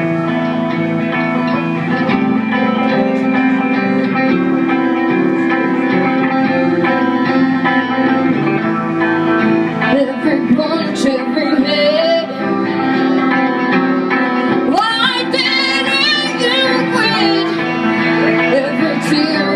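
Live band music: guitars holding sustained chords, with a wavering melody line coming in about halfway through and growing stronger near the end.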